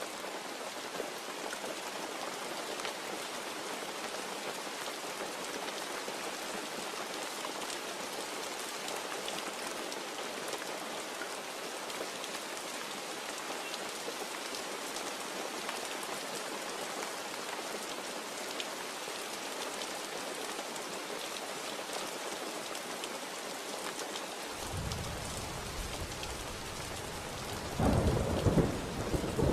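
Steady rain falling, then thunder: a low rumble sets in near the end and swells into a louder peal a few seconds later.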